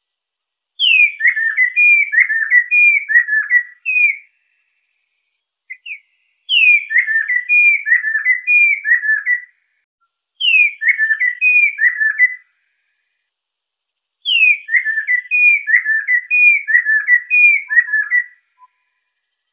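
Lesser necklaced laughingthrush (poksai lesser) singing. It gives four loud phrases of whistled notes. Each phrase opens with a high falling note and runs on into a quick series of shorter falling whistles, with pauses of one to two seconds between phrases.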